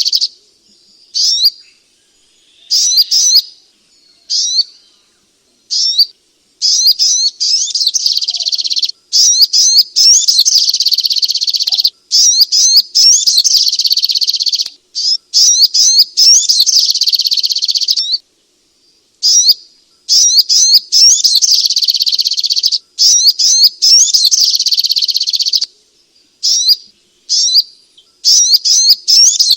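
Brown-throated sunbird (sogok ontong) singing: high, rapid chirping phrases, some running several seconds and others short, broken by brief pauses. It is a recorded song played to provoke a sluggish, quiet bird into singing.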